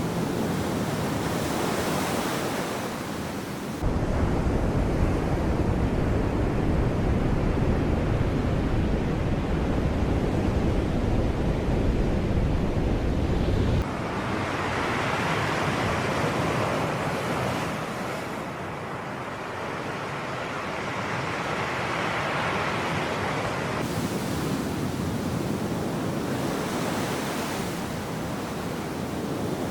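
Sea waves breaking and washing ashore, a continuous rushing surf. From about 4 s to 14 s a heavy low wind rumble on the microphone sits under the surf, starting and stopping abruptly.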